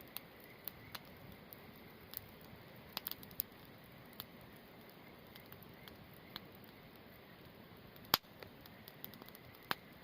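Wood campfire crackling: irregular sharp pops and snaps over a steady low hiss, with a small cluster about three seconds in and the loudest snap about eight seconds in.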